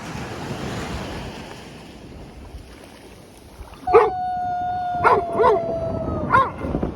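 Ocean surf and wind hiss, then a dog whining. About four seconds in, a long, high, steady whine starts and sinks slightly in pitch for about two seconds, with several short whimpering yelps over it.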